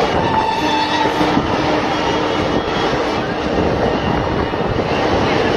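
Rushing rail noise of a passenger train's coaches going by close alongside, heard through an open coach window, with a thin steady whine for about three seconds in the first half.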